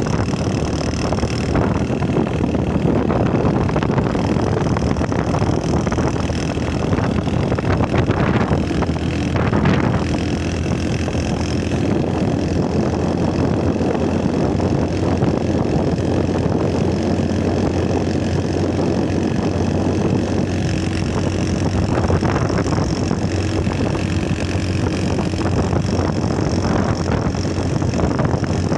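Motorcycle engine running steadily, without marked revving.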